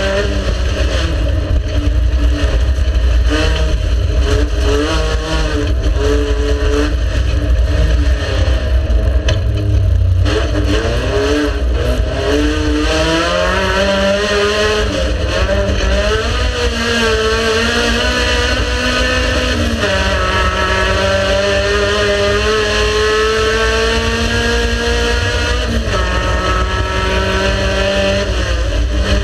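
Race car engine running hard, its pitch climbing under acceleration and dropping sharply at shifts or lifts, with a heavy low rumble throughout.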